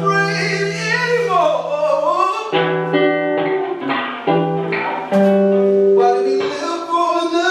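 Acoustic guitar playing a song, with a voice singing long held notes that bend in pitch, without clear words.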